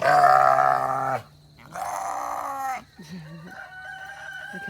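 Farm animals bleating: two loud bleats in the first three seconds, then a quieter, longer call.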